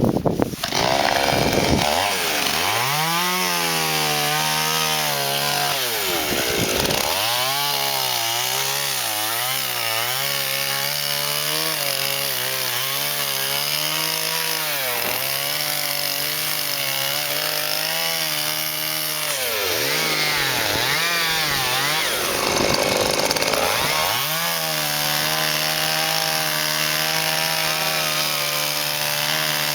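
Two-stroke chainsaw running at high revs for long stretches. Its engine note drops away and climbs back several times as the throttle is let off and opened again: briefly about 2 and 6 seconds in, and with a few quick blips between about 19 and 24 seconds.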